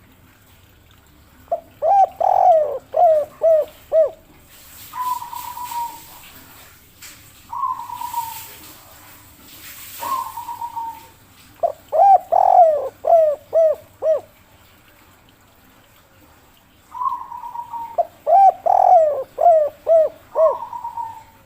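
Spotted dove (derkuku) cooing: three runs of about six quick falling coos, with single drawn-out falling coos between them. This is the 'kuk 3' call played as a lure to draw wild doves to answer.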